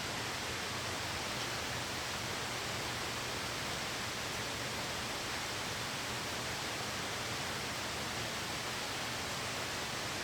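Steady, even hiss of heavy rain, without distinct drops or crackles.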